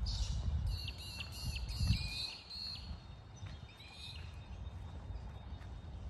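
A bird calling: a quick run of high notes stepping up and down for about two seconds, then a shorter call a second later. Beneath it, a steady low rumble from outdoor wind or handling noise on the microphone.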